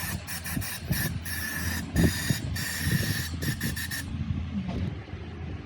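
Hissing spray in a run of short bursts, each with a thin whistling tone, stopping about four seconds in, over a steady low hum.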